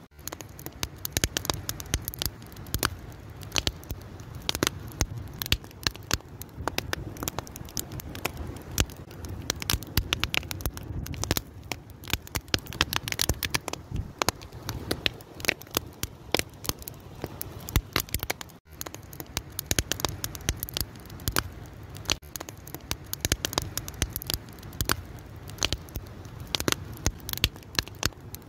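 Wood fire crackling steadily: dense, irregular pops and snaps over a low rumble of flames. The sound drops out for an instant about two-thirds of the way through.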